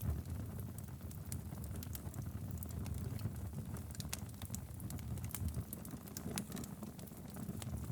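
Wood fire burning in a fireplace: a low, steady rumble of flames with frequent small crackles and pops from the logs.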